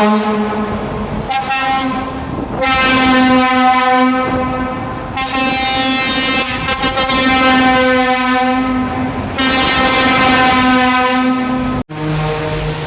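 Passing trucks blowing their air horns in long, steady blasts over the rumble of their engines. Just before the end the sound cuts off abruptly and a lower-pitched horn begins.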